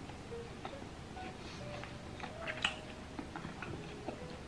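A person chewing grilled pork belly, the eating giving scattered small clicks and smacks at an uneven pace.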